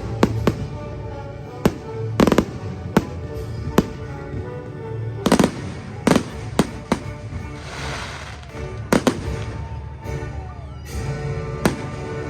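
Fireworks display: a series of sharp bangs from bursting shells at irregular intervals, with a stretch of crackling hiss about eight seconds in. Music plays steadily underneath.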